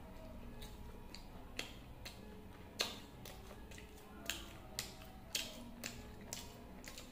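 Close-up mouth sounds of a person chewing masala dosa: wet lip smacks and clicks at irregular intervals, the loudest about three seconds in.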